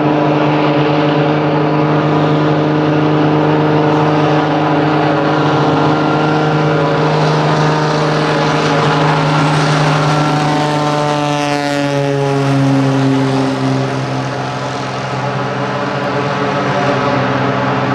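Cessna 185F floatplane's six-cylinder Continental engine and propeller at takeoff power, a loud steady drone whose pitch drops about twelve seconds in as the plane passes by.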